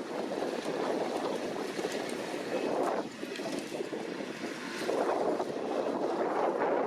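New Holland T7.290 tractor running with a KUHN hay tedder turning in the field: a steady rushing machine noise that drops away about three seconds in and comes back up near five seconds.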